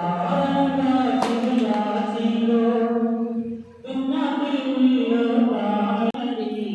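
Voices singing a devotional chant in long held notes, breaking off briefly about three and a half seconds in.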